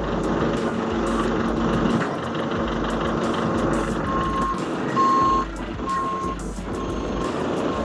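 Heavy truck engine running, with a reversing alarm that starts beeping about four seconds in and repeats about once a second.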